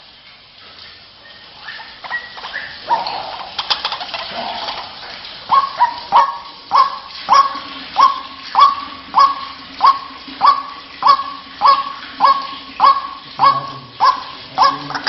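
White-breasted waterhen (ruak-ruak) calls from a bird-lure recording. A few scattered notes are followed, from about five seconds in, by a long run of repeated calls, a little under two a second.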